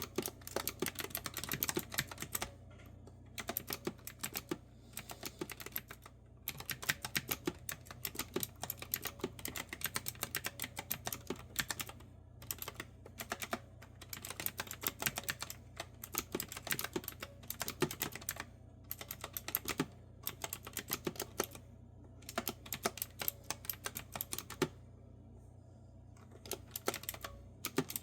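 Typing on a clicky retro-style keyboard with round keys: quick runs of crisp keystrokes in bursts of a few seconds, broken by short pauses, over a faint steady low hum.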